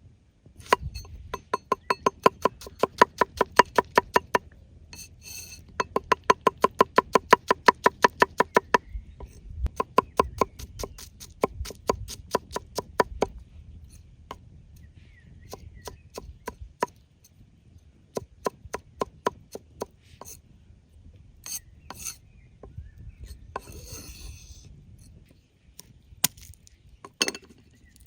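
Knife chopping on a wooden cutting board: three quick runs of about six strokes a second, each stroke with a short woody ring. After that come slower single cuts and a brief scrape across the board.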